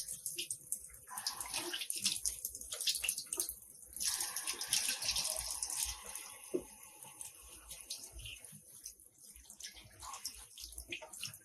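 Water splashing with an uneven hiss that comes and goes.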